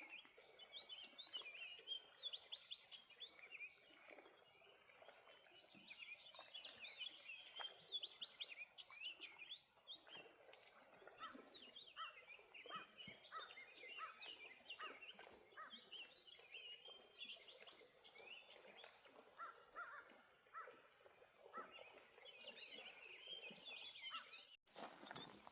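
Faint dawn chorus of songbirds: many quick overlapping chirps and trills, with a steady, thin high tone through the middle stretch. A sudden loud burst of noise breaks in near the end.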